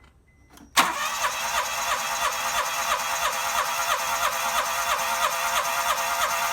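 Starter motor cranking a Daihatsu EF-DET three-cylinder turbo engine after its overhaul, kicking in suddenly about a second in with a steady, even beat.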